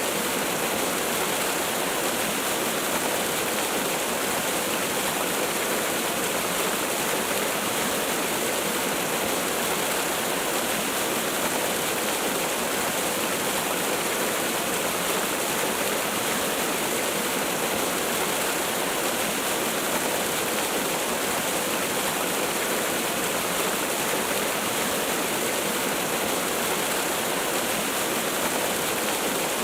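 Waterfall: a steady, even rush of falling water with no let-up or change.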